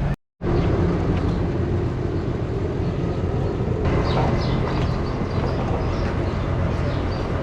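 A vehicle engine running steadily while driving, with a brief total dropout of sound just after the start.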